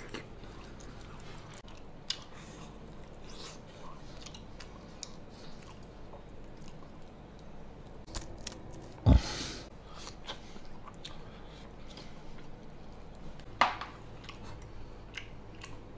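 A person chewing and biting into grilled pig's trotter close to the microphone, with many small scattered mouth clicks. A loud thump about nine seconds in, and a smaller knock a few seconds later.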